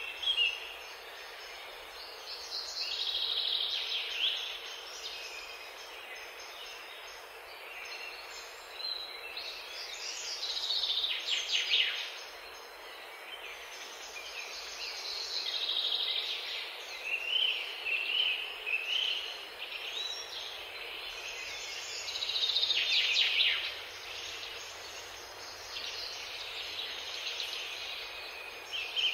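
Songbirds singing in short, warbling phrases every few seconds over a steady background hiss.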